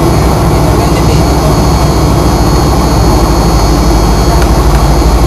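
Fokker 100's rear-mounted Rolls-Royce Tay turbofan engines running, heard inside the passenger cabin as a steady loud rumble with a high fan whine, growing slightly louder near the end.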